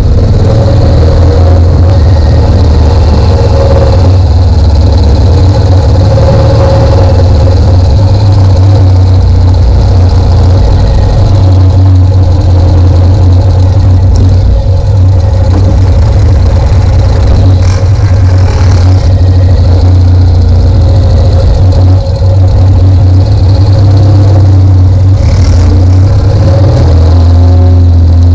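Engines running steadily and loud, with a constant low hum.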